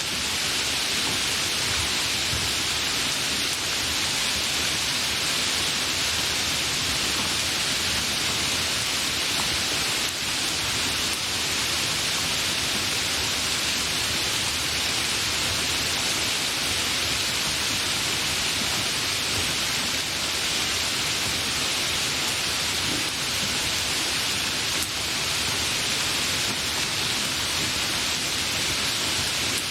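Steady, even rain hiss with no distinct drops or thunder.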